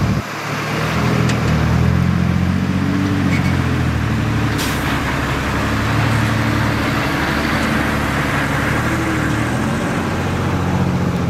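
Heavy diesel engine of earthmoving machinery running steadily under load, with a short sharp sound about four and a half seconds in.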